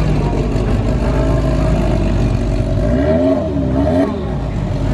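Car engines running at low speed, with a brief engine note rising and falling a few times about three seconds in.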